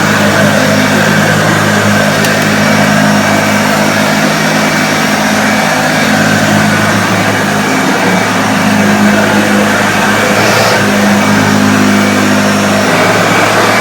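1976 Hoover Starlight upright vacuum cleaner running steadily while picking up loose debris: a loud, constant motor hum with a hissing airflow, its tone shifting slightly near the end.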